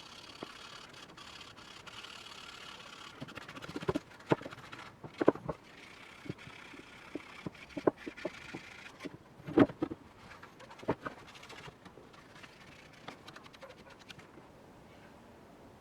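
Workshop tool work on rusty iron: a steady scraping hiss, with about half a dozen sharp knocks between about four and eleven seconds in.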